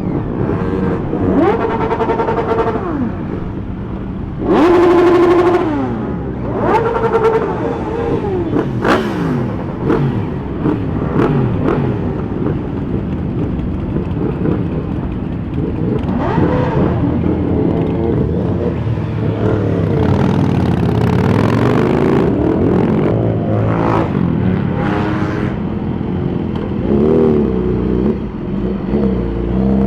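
Several superbike engines revving and pulling away, their pitch rising and falling over one another. One engine is held at high revs for about a second, about five seconds in, and this is the loudest moment.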